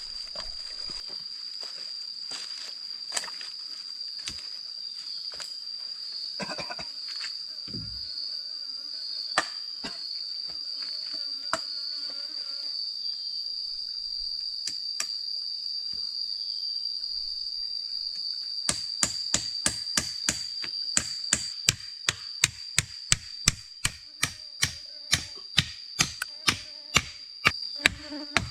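A steady high-pitched insect drone with a few scattered light knocks, then, about two-thirds of the way in, a hammer starts driving nails into wood at a steady rate of roughly two blows a second.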